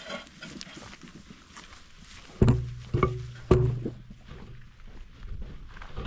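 Footsteps on the way up a hill carrying a heavy load, then three short, loud, low grunts about half a second apart from the effort, about two and a half seconds in.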